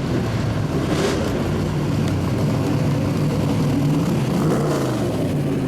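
Race car engines running at low speed as the cars roll past, a steady low engine note that rises and falls slightly in pitch.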